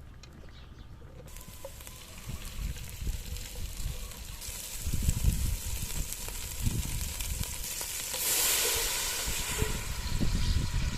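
Beef kebab meat sizzling in a pan over a wood fire; the sizzle starts suddenly about a second in, grows louder partway through and is loudest a little before the end. Uneven low knocks and thuds run under it.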